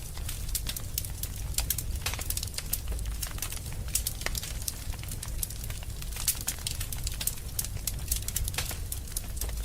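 Wood fire burning in a fireplace, crackling with many sharp, irregular pops over a steady low rumble.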